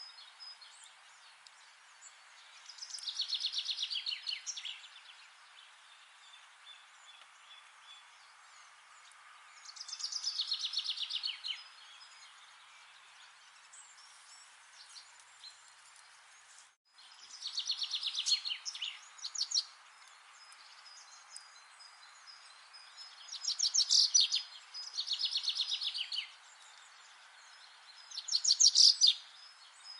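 A songbird repeating the same short, fast trilled phrase that drops in pitch, each about a second and a half long, six times at intervals of a few seconds, over a steady background hiss.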